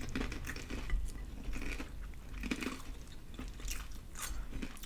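Close-up mouth sounds of eating a fried chicken and glazed donut sandwich: irregular crunchy, wet chewing with a soft hum or two.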